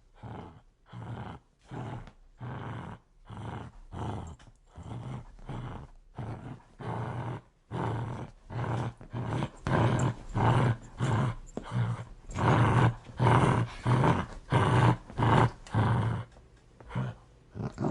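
A dog growling in short repeated pulses, about two a second, with each breath in and out. It grows louder about halfway through.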